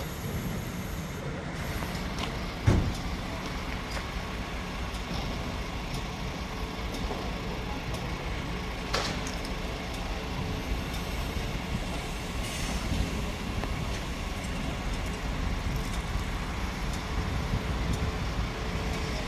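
Steady low engine rumble of heavy vehicles or machinery, with one sharp knock about three seconds in and a smaller click near nine seconds.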